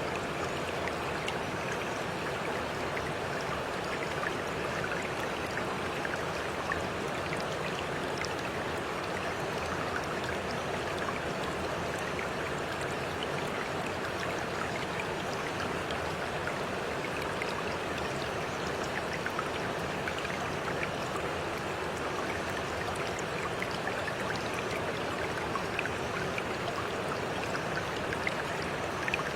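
Running water rushing steadily, with small splashes and drips scattered throughout.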